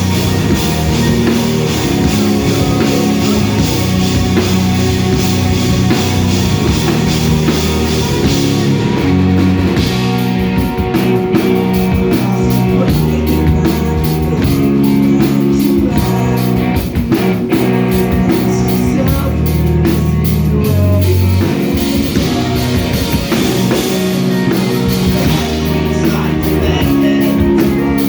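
Rock band playing live: electric guitar, bass guitar and drum kit, with the bass stepping between held low notes. The drumming gets busier about ten seconds in, with regular cymbal hits.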